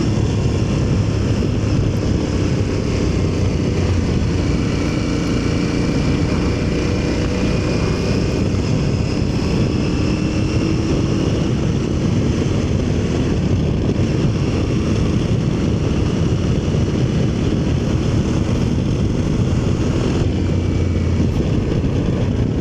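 Aprilia Tuareg motorcycle riding at a steady pace, its engine note held fairly even under heavy wind rumble on the microphone.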